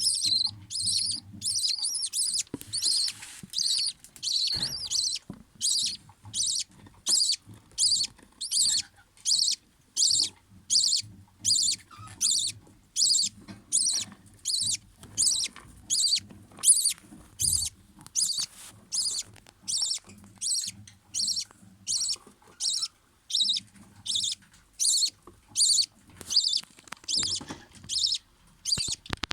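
Budgerigar chicks peeping, a rapid run of high-pitched chirps for the first few seconds, then settling into a steady rhythm of about two short peeps a second.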